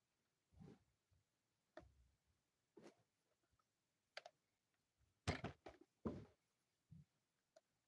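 A quiet room with a handful of faint, scattered clicks and soft knocks, the two loudest about five and six seconds in.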